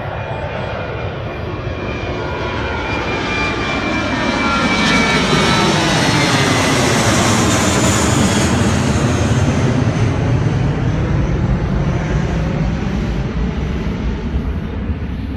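An airliner's engines as it passes close by: the sound builds to a peak around the middle and then fades, with its whine sliding down in pitch as the plane goes past.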